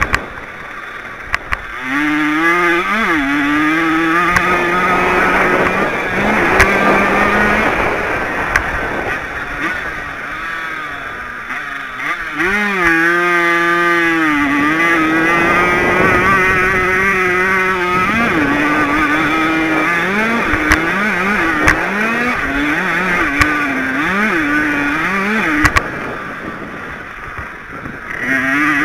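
Small 50cc two-stroke motocross bike engine racing, heard from on the bike: the pitch climbs and jumps back down again and again as the rider revs up and shifts gears, falling away when the throttle is closed for the corners just after the start and near the end.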